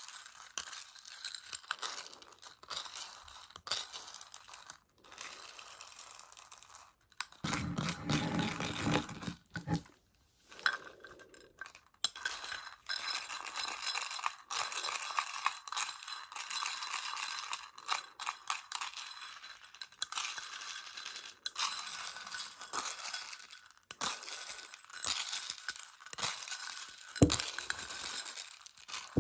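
Close-miked tapping and handling of Choco Baby candy and its plastic case: many small, irregular clicks and rattles of the tiny chocolate pellets, with a short pause about ten seconds in.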